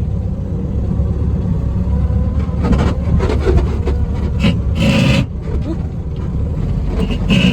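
1963 Volkswagen Beetle's air-cooled flat-four engine and road noise, heard from inside the car while driving: a steady low rumble with three short, louder noises about three, five and seven seconds in.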